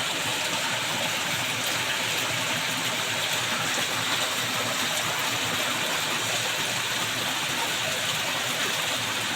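Steady rushing of a waterfall, an even wash of water noise that does not change.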